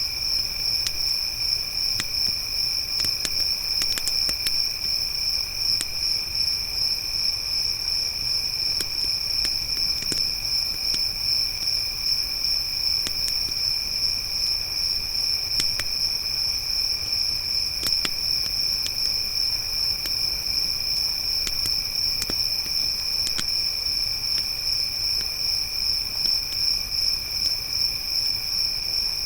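Crickets trilling without pause in a high, even pulse, with a second, lower insect trill beneath, over the scattered sharp pops and crackles of a burning wood fire.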